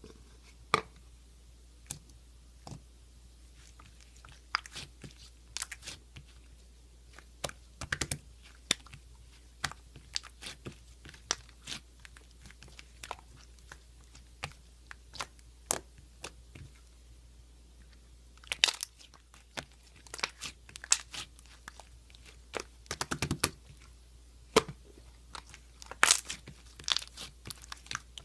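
Irregular close-up crunching and crackling clicks, scattered at first and then denser, with the loudest snaps in clusters in the second half.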